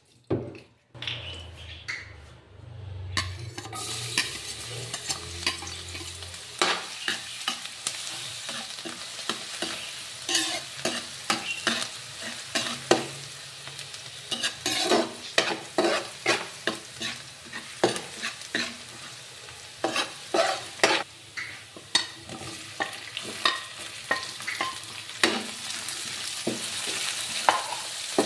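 Chopped garlic and onion sizzling in hot oil in a metal wok, starting a few seconds in, while a metal ladle stirs them with frequent sharp scrapes and clinks against the pan.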